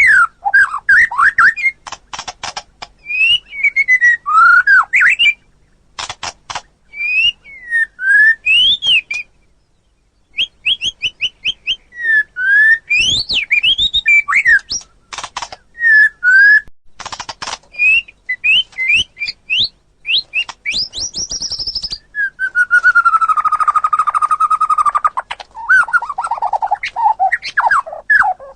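White-rumped shama (murai batu) singing loudly: varied whistled phrases sweeping up and down, quick trills and sharp clicking notes, broken by a brief pause partway through. About three-quarters of the way in comes a long held whistle lasting about three seconds.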